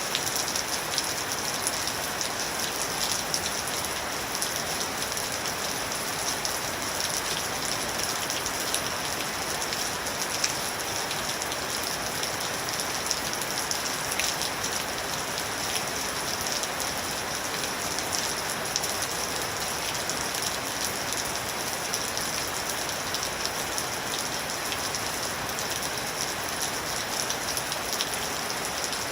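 Steady rain falling on a surface, an even hiss with many small sharp drop ticks throughout.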